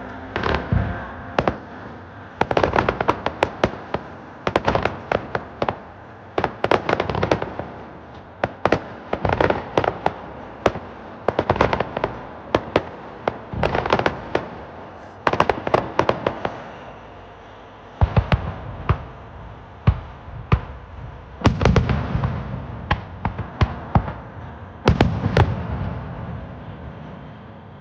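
Fireworks display: aerial shells bursting in rapid volleys of sharp bangs and crackles, a new cluster every second or two. Deeper, heavier booms come in the later part.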